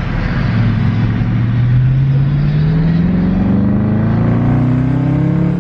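Dodge Charger R/T's 5.7-litre HEMI V8, with its mid-muffler deleted, accelerating hard. The exhaust note is loud and rises steadily in pitch without a break.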